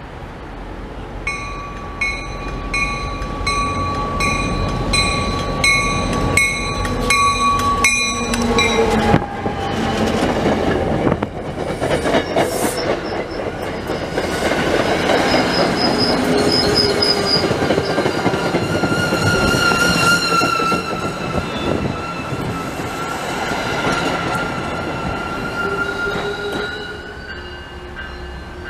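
An MBTA commuter rail train approaches and passes close by, loud and rushing. During the first several seconds there is a rhythmic ringing at about two strokes a second, and long squealing tones from the steel wheels run through most of the pass before fading near the end.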